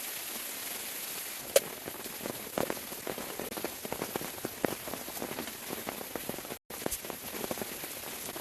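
Steady rain falling, with heavy drops tapping on a surface from about a second and a half in. The sound cuts out for an instant near the end.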